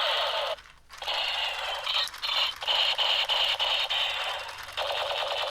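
Battery-powered Iron Man toy gun playing its electronic firing sound effect through a small speaker, a buzzy rattling blast. It cuts out briefly about half a second in, runs again, and starts a third burst near the end.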